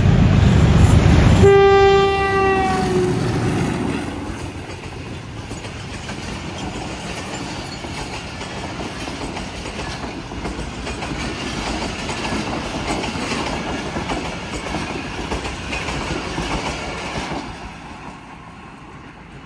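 Pakistan Railways Hitachi PHA-20 diesel-electric locomotive passing at speed under power. Its engine is loud for the first second or so, then it sounds a short horn blast that dips in pitch at the end as it goes by. The coaches follow with a steady clickety-clack of wheels over the rail joints, which drops off near the end as the last coach passes.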